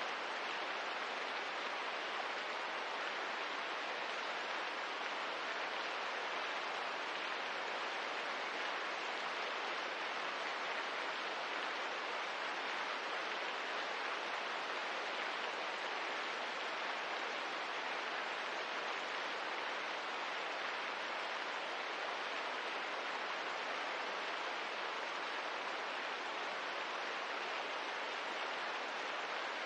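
Steady, even rain noise with no breaks or separate drops standing out.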